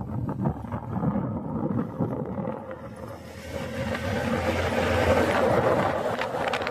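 Wind buffeting the microphone over the rumble of a moving vehicle, the noise swelling louder in the second half.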